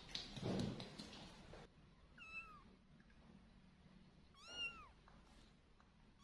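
A cat meows twice, short calls that rise and then fall in pitch, the second about two seconds after the first. Before them, in the first second and a half, there is a louder shuffling noise.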